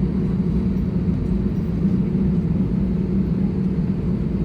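Steady low drone inside the cabin of a parked Airbus A320neo, the aircraft's air and power systems running at the gate.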